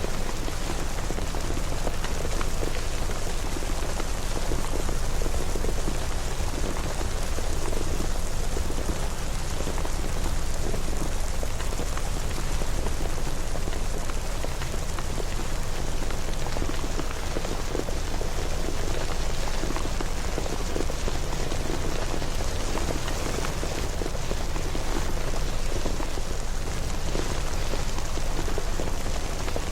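Steady rain, a dense patter of small drops over a constant low rumble, even in level throughout.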